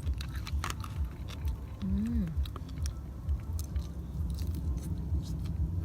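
Close-up chewing of food, with many small wet mouth clicks and a short hummed "mm" about two seconds in, over a steady low rumble.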